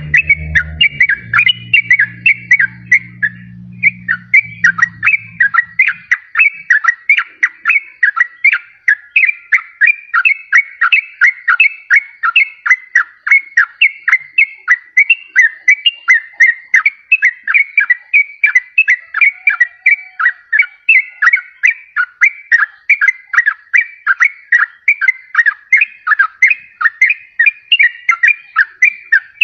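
Yellow-vented bulbul (trucukan) song: a continuous fast run of short, bubbling, whistled notes, about three or four a second, used as a lure call. A low steady hum fades out in the first few seconds.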